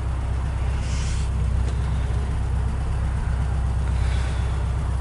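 BMW 2002's inline four-cylinder engine idling steadily, heard from inside the car.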